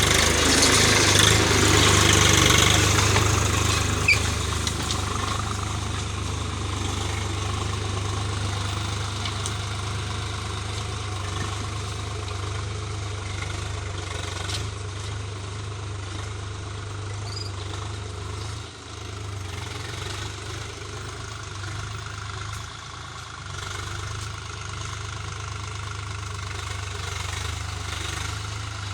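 Swaraj 735 FE tractor's three-cylinder diesel engine running steadily, louder for the first few seconds.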